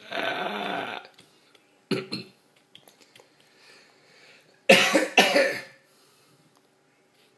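Baby making raspy, throaty croaking sounds: a long one at the start, a short one about two seconds in, and two loud ones close together about five seconds in.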